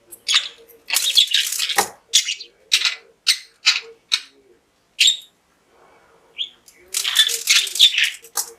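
Budgerigar chattering close by: a fast run of short, scratchy, rattling chirps with brief pauses between them.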